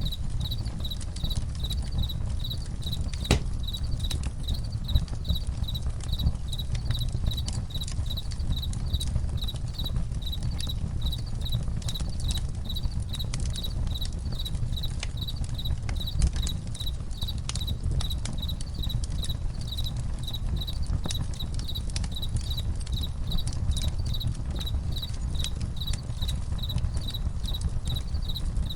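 Crickets chirping in a steady, even rhythm over a crackling campfire, which gives a low rumble with scattered sharp pops and snaps. One pop stands out about three seconds in.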